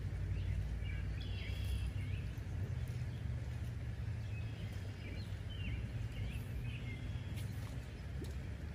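Birds chirping and calling on and off over a steady low rumble, with one sharp click near the end.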